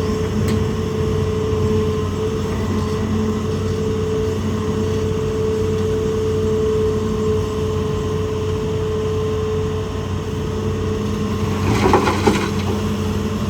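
Hitachi ZAXIS200 excavator's diesel engine running steadily, a constant drone with a steady tone over it. Near the end comes a brief clattering scrape of rock.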